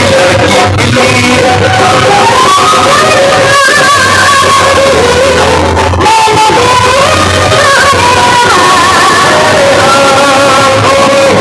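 Loud song with a singer's melody over heavy bass, played through a large roadshow sound system (DJ box speakers), with heavy distortion.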